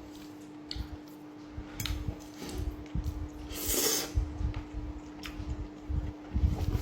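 Close-up eating sounds of a mouthful of creamy mushroom risotto being chewed, with scattered clicks of cutlery on the plate and a brief hiss about four seconds in. A steady low hum runs underneath.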